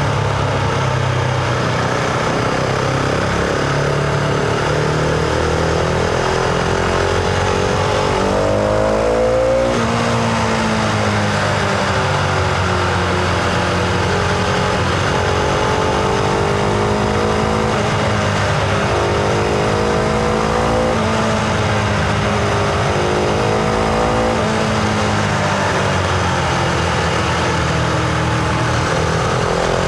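Husqvarna Vitpilen 701's single-cylinder engine and exhaust under way, heard from the rider's position. The revs climb to about nine seconds in, drop sharply at a gear change, run at a lower, slowly rising and falling pitch, and climb again near the end.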